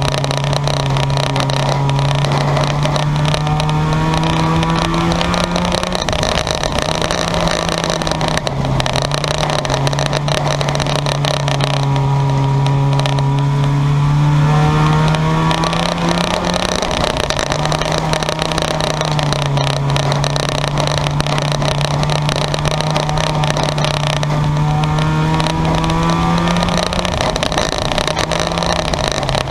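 Car engines racing at speed on an oval track: one engine holds a steady drone that steps up and down in pitch every few seconds, while other cars' engines sweep up and then down in pitch as they go by.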